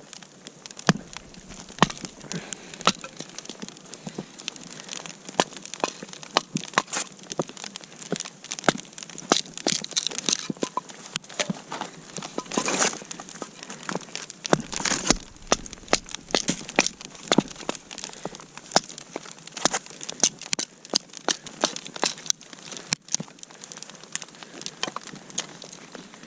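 Snow and ice crunching irregularly: many small sharp crackles, with a few louder crunches about halfway through.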